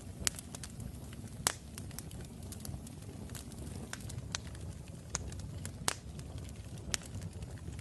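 Wood fire crackling in a fireplace: a steady low rumble of burning with irregular sharp pops and snaps scattered throughout.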